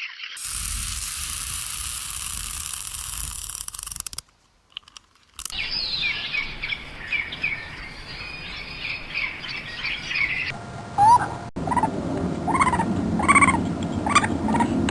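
Birds calling in several short cuts: steady hiss at first, then a second of silence, then quick high chirps, then a run of separate, louder rising calls near the end.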